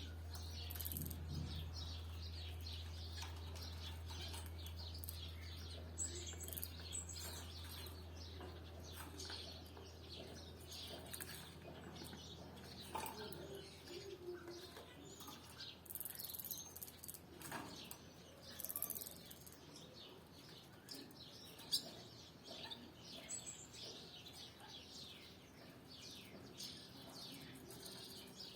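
Canaries giving short, soft chirps at intervals, with scattered rustles and small taps. A low hum fades away during the first ten seconds.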